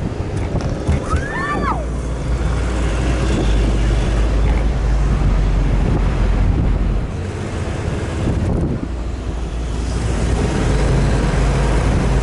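Wind buffeting the microphone over the low, steady rumble of an off-road vehicle driving. About a second and a half in there is a brief pitched sound that falls in pitch.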